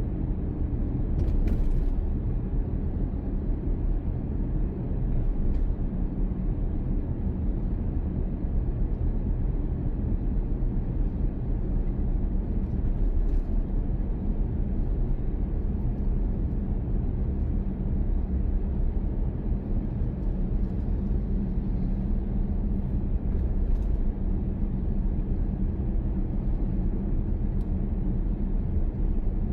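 Steady rumble of a car being driven, engine and road noise together, with a faint steady hum and one brief tick about a second in.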